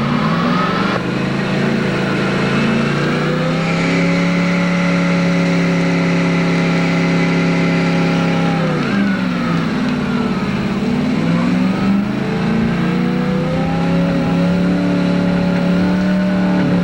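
Pickup truck engine held at high revs during a burnout on a wet pad. The revs climb over the first few seconds and hold. About halfway through they sag and climb back, then hold high again.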